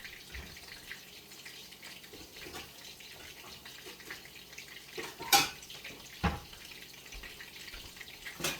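Kitchen work sounds: a faint steady hiss, with a sharp clack of dishware about five seconds in, a duller knock a second later and another clack near the end.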